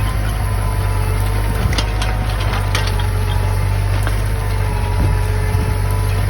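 New Holland tractor engine running steadily while driving a hydraulic inter-row weeder, with a steady high hum over the engine note. A few sharp crackles come about two seconds in.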